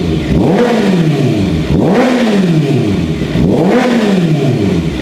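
2023 Kawasaki ZX-6R's inline-four engine being blipped on the throttle three times, about a second and a half apart, each rev rising and falling back toward idle. The engine is at operating temperature after a radiator replacement and coolant refill, running without its radiator fan.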